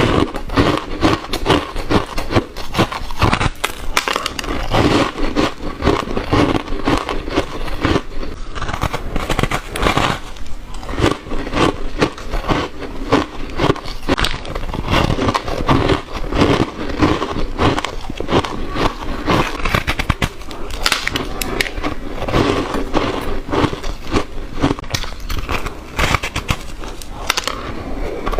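A person biting and chewing crushed and shaved ice close to the microphone: a dense, unbroken run of crackly crunches.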